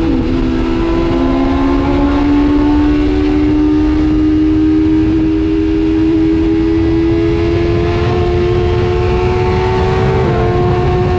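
Superbike engine under sustained hard acceleration. Its pitch climbs slowly and steadily, stepping down briefly just after the start and again near the end as it shifts gear, over a constant rush of wind and road noise.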